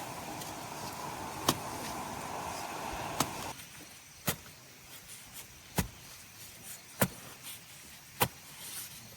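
Sharp chopping strikes, roughly one every second or so, like a blade cutting into cane. A steady rumbling noise underneath stops about a third of the way in.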